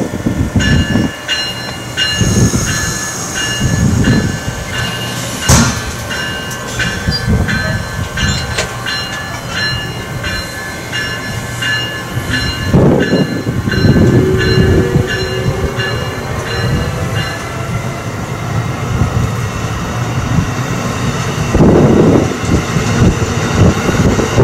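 Amtrak passenger train rolling past on the far track: its wheels click over the rail joints in a steady rhythm, with thin ringing squeal tones and a low rumble. A short tone rises and then holds about halfway through.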